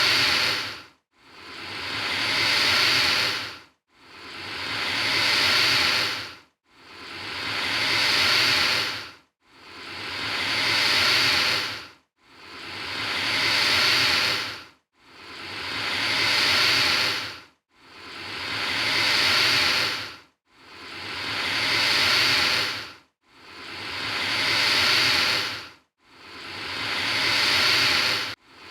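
Alligator hissing, repeated about every three seconds: each hiss swells over about two seconds, then stops abruptly, with a short silence before the next, about ten in all, identical enough to be one hiss looped.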